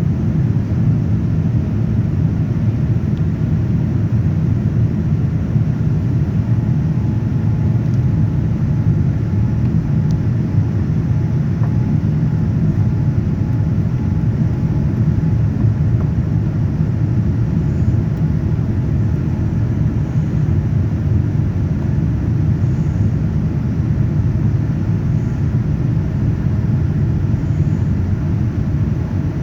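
Steady low rumble of an airliner's engines and airflow heard from inside the passenger cabin in flight.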